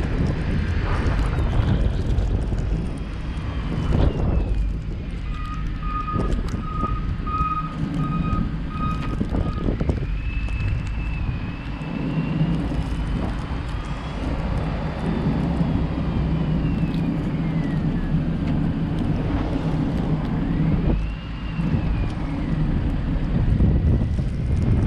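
Car driving through snow, with a steady engine and road rumble. A faint whistle slowly rises and falls. A few seconds in comes a run of about seven short, evenly spaced beeps.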